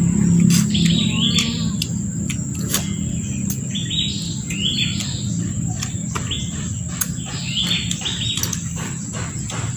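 A bird chirping repeatedly, short falling notes about once a second, over a steady high-pitched whine.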